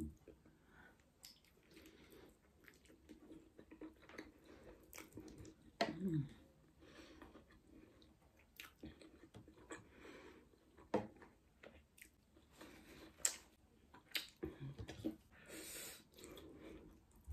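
Chewing and wet mouth clicks of someone eating a steamed chicken momo, followed near the end by a slurp of noodles.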